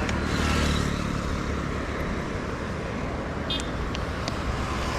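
TVS Raider 125 single-cylinder motorcycle running steadily at cruising speed, heard under steady wind and road noise. A few brief ticks come near the end.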